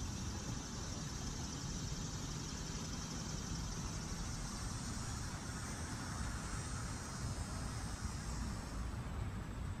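Steady outdoor background noise: a low rumble under a high, insect drone that grows fuller midway through and drops away near the end.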